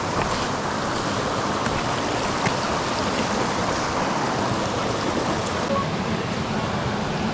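Rushing mountain-stream water, a steady, even rush with no letup.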